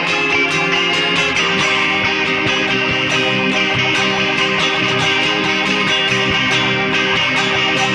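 Guitar rock recording in an instrumental passage: electric guitars strumming and holding notes over bass and a steady drum beat, with no vocals.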